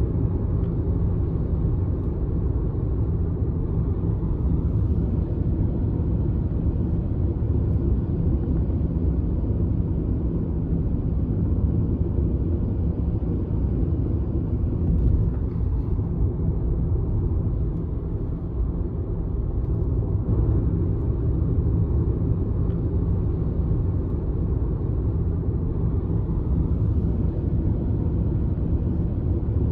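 Steady low rumble of a moving vehicle heard from inside, even throughout with no distinct events.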